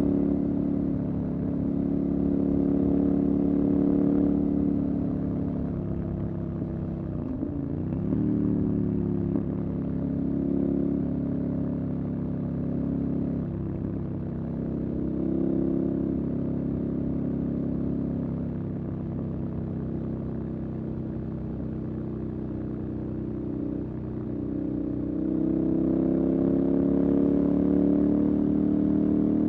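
Motorcycle engine running under way, its pitch dipping briefly a few times as the revs drop and pick up again, then rising near the end.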